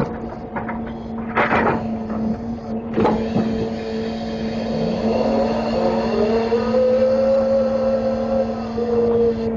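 Grapple truck's engine and hydraulics running under load: a steady drone, with a whine that rises in pitch about halfway through, holds, then drops near the end. A couple of metal knocks come in the first few seconds.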